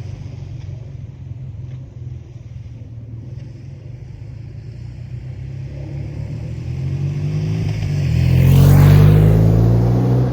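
BMW R 12 G/S boxer-twin motorcycle engine rumbling as the bike approaches, growing louder to a peak about nine seconds in, then dropping in pitch as it passes close by.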